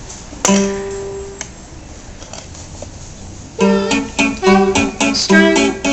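Guitar: one chord strummed and left to ring for about a second, then after a pause a quick run of several strummed chords near the end.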